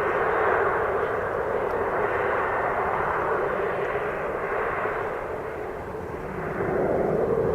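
Boeing 737-800's CFM56-7B turbofan engines at takeoff power, a steady jet roar that dips slightly and swells again near the end.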